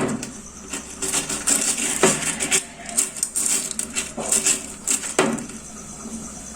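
Aquarium stones clinking and clattering against a glass fish bowl as a plant is pushed down among them: a run of quick small clicks with a few sharper knocks, about two seconds apart.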